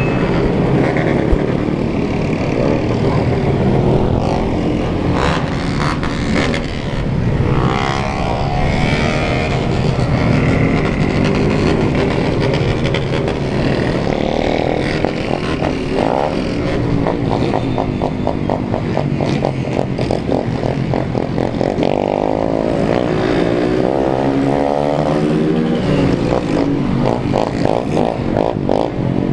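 A group of motorcycles, mostly Honda 160 single-cylinder bikes, running and revving together. Engine pitch rises and falls several times, with a fast, even engine pulse in the second half.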